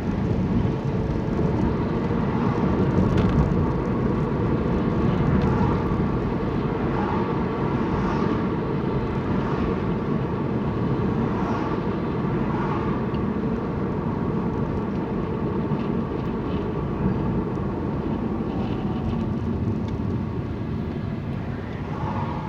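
Steady road and engine rumble heard from inside a moving car, with tyre noise, easing off slightly near the end.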